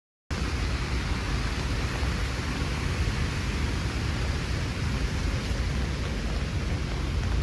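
Steady rushing noise of rain, cutting in abruptly out of silence about a third of a second in.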